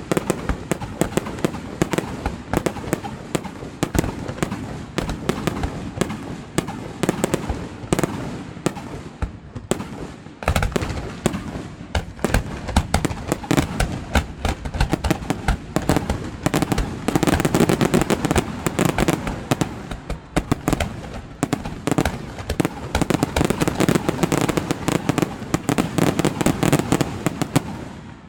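Aerial fireworks going off: a dense, continuous crackle of rapid bangs, growing heavier about ten seconds in and cutting off abruptly at the end.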